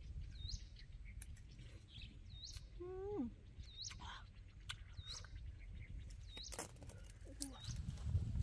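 A bird calling over and over, a short high hooked chirp every second or two, over a steady low rumble and a few sharp clicks.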